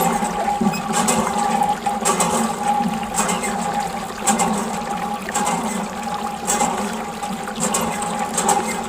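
Water gushing and splashing from a miniature DIY water pump, with a steady hum underneath and sharper splashes about once a second.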